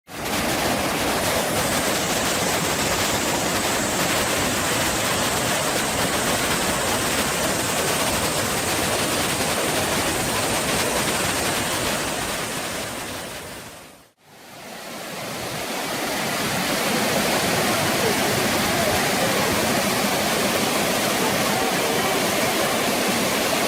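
Waterfall pouring, a steady, loud rush of falling water. It fades out about 14 seconds in and fades back in a few seconds later.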